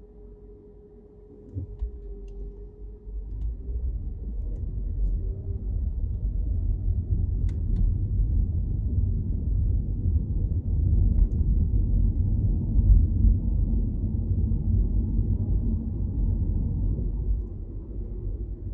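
Low, steady road and engine rumble of a car heard from inside, building up over the first few seconds as the car gets moving, with a few faint clicks.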